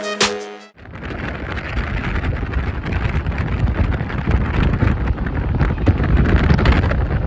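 Electronic intro music with a heavy beat cuts off under a second in, followed by steady wind rumbling and buffeting on the microphone.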